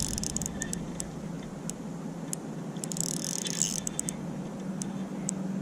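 Fishing reel being cranked while fighting a hooked smallmouth bass: a steady low gear whir under scattered small mechanical clicks and rattles, with a short hiss about three seconds in.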